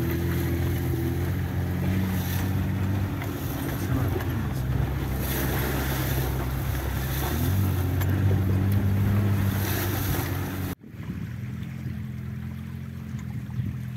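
Off-road vehicle engine running under load, its pitch shifting as the revs change, with heavy wind and rushing noise over it. The sound breaks off abruptly about three-quarters through and resumes a little quieter.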